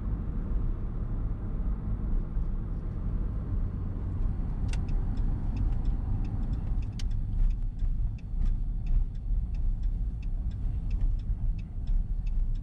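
Steady low road and engine rumble inside a moving truck's cab. About five seconds in, a turn-signal indicator starts clicking at an even pace, roughly three clicks a second.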